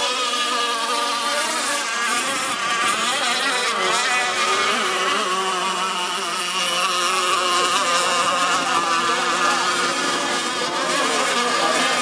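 Several gas-powered radio-controlled catamaran race boats running at high revs with a high, buzzing engine drone, their pitches wavering and overlapping.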